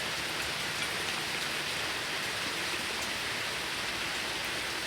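Steady, even hiss with no knocks or tones, like rain falling.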